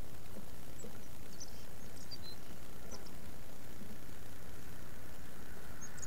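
Several faint, short, high bird chirps, about five in the first three seconds, over a steady low outdoor rumble, with a few soft taps.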